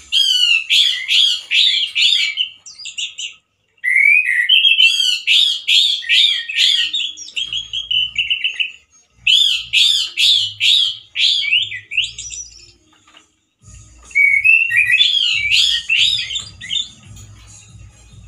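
Male orange-headed thrush singing loudly: four long phrases of rapid, varied whistled notes, each ending after a few seconds and followed by a short pause.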